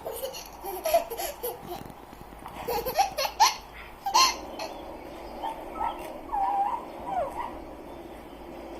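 A young child laughing and squealing in short excited bouts, loudest in the first half, then softer squeals that die away near the end.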